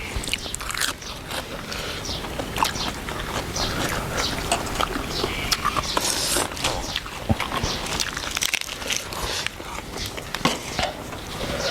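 A person eating up close: chewing and biting, with frequent small irregular clicks and smacks.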